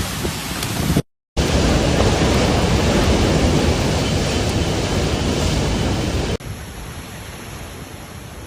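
A loud, steady rushing noise of wind or water. It breaks off in a short dead gap about a second in, comes back loud, then drops abruptly to a quieter hiss about six seconds in.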